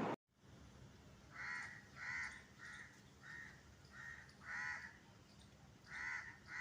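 Crow cawing: a string of short, harsh caws about half a second apart, with a pause near the end before the calls resume.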